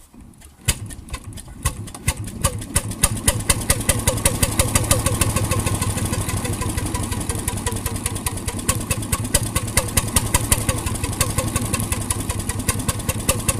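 1921 RSM 3½ HP hotbulb marine engine starting: a sharp knock about a second in, then firing strokes that quicken over the next few seconds and settle into a steady, even beat.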